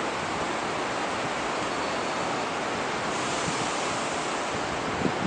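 Wind blowing in a steady rush ahead of rain, with a low buffet on the microphone near the end.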